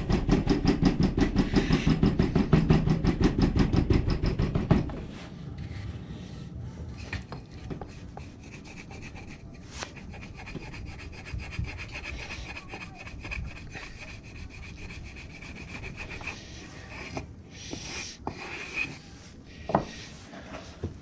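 Damp foundry sand being worked by hand in a moulding flask: a fast, even rubbing at about eight strokes a second for the first five seconds, then quieter scattered scrapes and taps.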